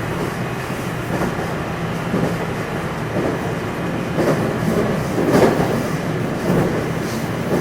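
JR West 227 series electric train (Hitachi IGBT VVVF inverter) running, heard from inside its motor car: a steady rumble of wheels and motors with irregular thumps over the rails, the loudest about five seconds in.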